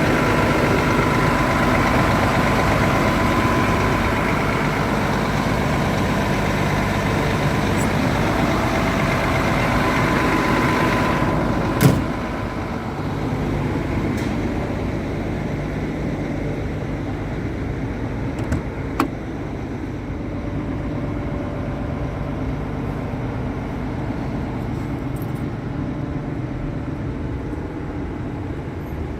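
Doosan DX360LCA excavator's diesel engine running steadily. A single sharp knock comes a little before halfway, after which the engine runs a little quieter. Two lighter clicks follow several seconds later.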